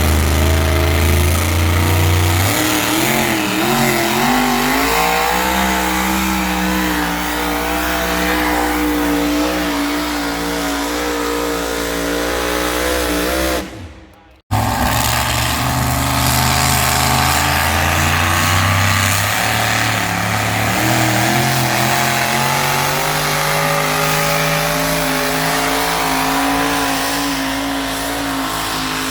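Pulling tractor's engine running hard under load, its pitch wavering and climbing over the first few seconds, then holding high and steady. The sound drops out abruptly for about half a second halfway through, then the engine picks up again at a similar pitch.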